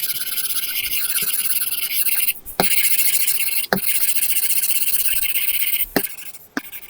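Apple Pencil tip scratching across a paper-like matte film on an iPad screen: a steady, scratchy rasp of continuous shading strokes, broken three times by a short tap as the pen lifts and sets down. Near the end it turns into quick, separate short strokes.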